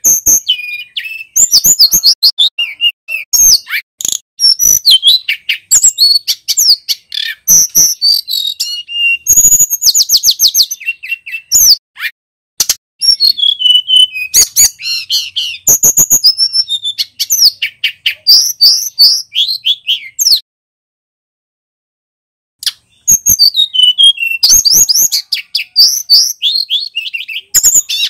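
Male tledekan gunung, a small songbird, singing a fast, loud, high-pitched string of chirps, sweeping whistles and trills. The song stops for about two seconds about two-thirds of the way through, then resumes.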